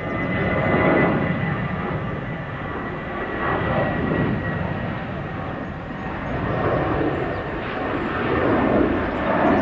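Jet airliner engines running: a loud, even rushing noise that swells and eases, with a steady high whine that fades out about halfway through.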